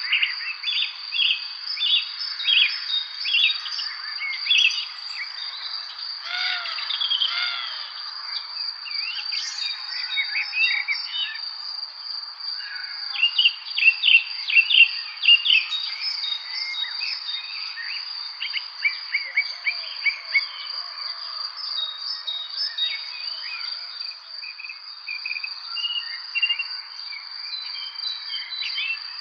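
Several birds chirping and singing in short, quick notes over a steady, high-pitched insect drone, such as crickets.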